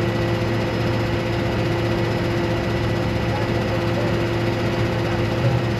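A vehicle engine running steadily, a constant drone with no change in speed.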